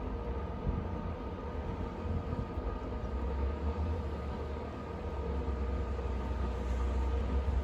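Snowstorm wind: a steady low rumble with a faint hum of steady tones above it, the rumble swelling louder through the second half.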